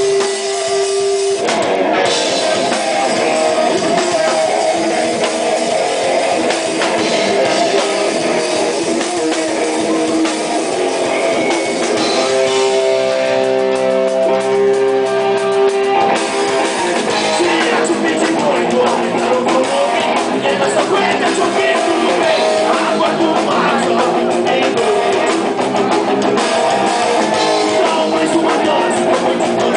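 Rock band playing live, with electric guitar and drum kit. A stretch of held notes comes about halfway through.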